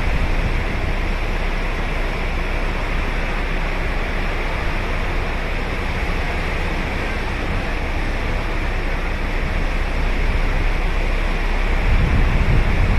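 Ocean waves breaking and washing up the beach: a steady rushing surf that swells louder near the end.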